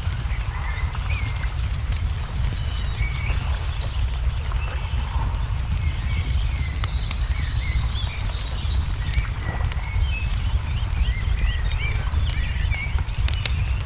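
Wood fire crackling with frequent sharp pops over a steady low rumble, while small songbirds chirp and whistle, with a quick high trill about a second in.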